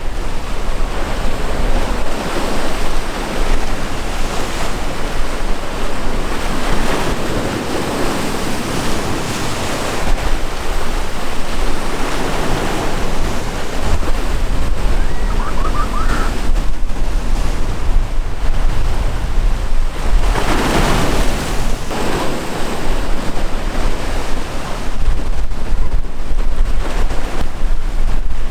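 Sea waves surging and breaking, with gusty wind buffeting the microphone as a low rumble. One wave surge is louder about two-thirds of the way through.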